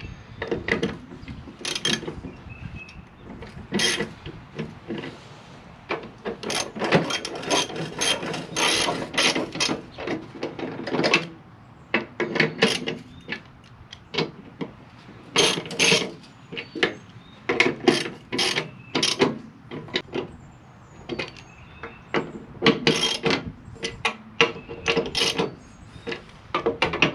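Socket ratchet wrench clicking in repeated runs of quick strokes, tightening the mounting bolts of a new mower-deck spindle.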